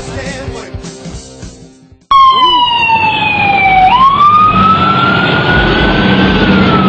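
Rock music fading out, then, after an abrupt cut about two seconds in, a loud emergency-vehicle siren wailing: its pitch falls, sweeps up, then slowly falls again over a noisy background.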